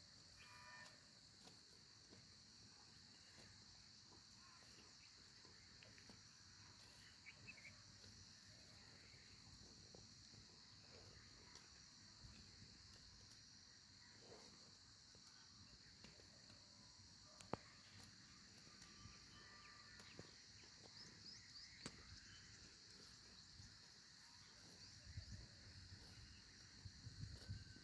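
Faint, steady high trilling of field insects such as crickets, with a few soft clicks and some low thumps near the end.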